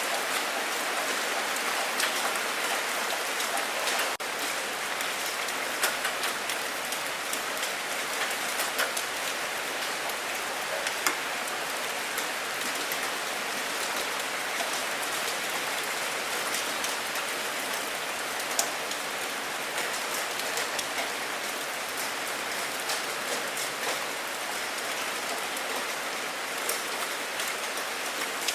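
Steady rain falling, with many individual drops ticking sharply over an even hiss. It dips for an instant about four seconds in.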